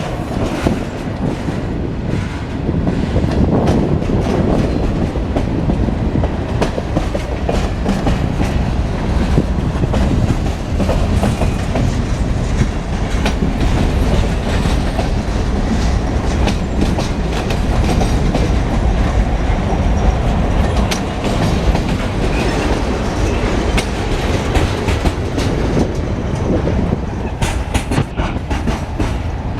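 Freight train rolling steadily past, its wheels clicking over the rail joints with a continuous rumble.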